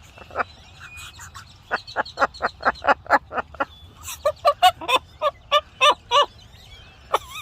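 Pet parrot giving a rapid, laugh-like run of short repeated calls, about five a second, in two bursts with a brief break between them.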